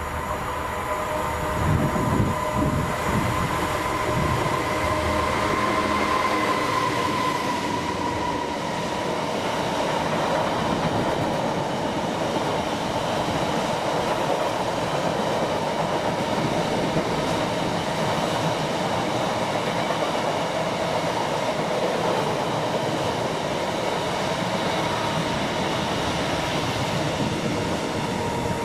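Freightliner Class 66 diesel locomotive, its two-stroke V12 engine heard in the first few seconds as it passes, hauling a long train of container flat wagons. After that comes a long, steady rumble and rattle of the wagons' wheels on the rails. A high ringing tone fades out after about eight seconds.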